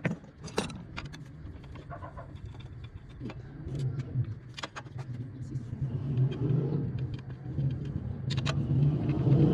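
A motorcycle engine running with a steady low drone that grows louder toward the end, with scattered clicks and clatter over it.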